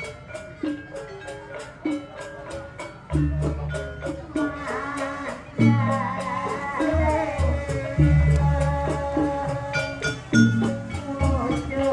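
Live gamelan-style music for a barong dance: metal mallet percussion ringing over a steady quick beat of about three strikes a second, with heavy drum strokes coming in and out and a wavering melodic line near the middle.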